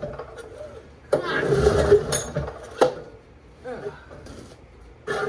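A long-unused Honda EM3000 generator's engine cranked by its recoil pull-starter: one hard pull about a second in turns it over for roughly a second and a half without it catching, followed by a sharp click and a short second burst near the end.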